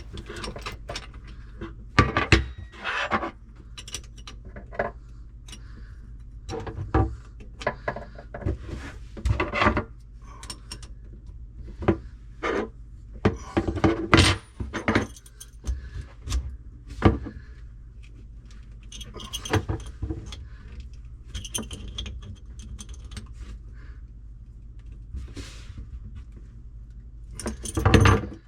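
Irregular metallic clinks, knocks and scrapes of hands working fittings and tools under a sink while a faucet's hot water supply line is connected to its shutoff valve, over a steady low hum.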